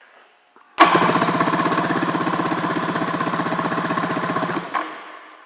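Sea-Doo 717/720 two-stroke twin engine cranked over by its starter without firing, in a rapid even pulsing, for about four seconds, then stopping. This is a compression test on the PTO-side cylinder, which reads 146 PSI, a healthy figure.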